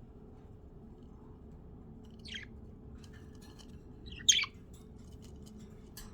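Pet budgerigars calling: two short chirps, the second one louder, with faint light clicks in between.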